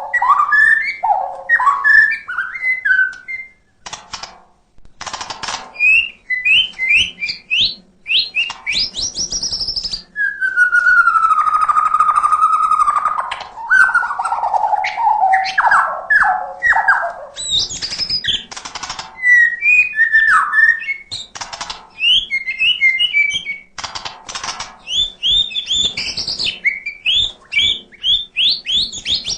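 White-rumped shama (murai batu) singing a long, varied song: quick whistled phrases, chattering notes and sharp clicks, with a long falling whistle about ten seconds in.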